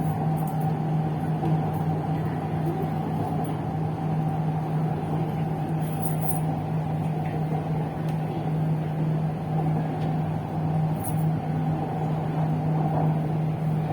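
MRT Purple Line metro train heard from inside the car: a steady rumble of running noise with a constant low hum and a fainter higher tone above it.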